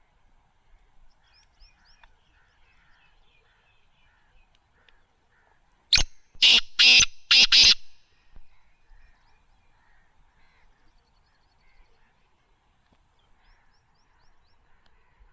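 Black francolin calling: a single harsh, grating phrase of four loud notes about six seconds in, over faint chirping of other birds.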